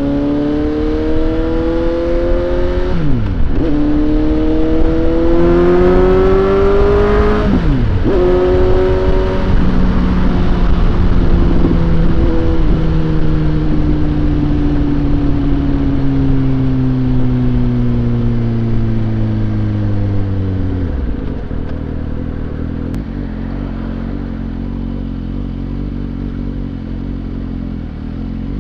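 Suzuki GSX-S750's inline-four engine accelerating hard through the gears, its pitch climbing and dropping sharply at each upshift, about three and eight seconds in. The engine note then falls slowly as the bike slows and settles into a low, steady drone for the last several seconds.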